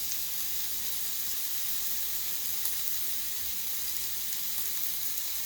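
Bulgogi-marinated chicken skewers frying on a lightly oiled griddle, a steady sizzle.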